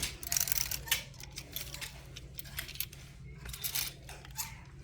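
Wire clothes hangers clicking and scraping along a metal clothing rack as shirts are pushed aside one after another, over a steady low hum.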